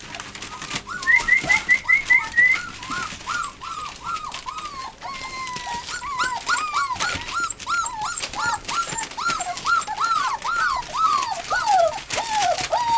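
American Bulldog and Siberian Husky mix puppies whining, a steady string of short rising-and-falling whines, about three a second, with a brief run of higher chirps a second or so in.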